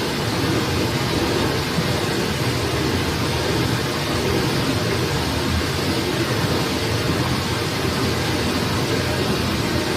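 Steady rushing of a forest stream, an even roar of flowing water.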